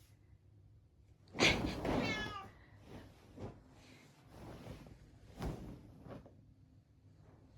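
A 16-year-old cat meowing once, loudly, about a second and a half in, followed by a few softer sounds and a short knock.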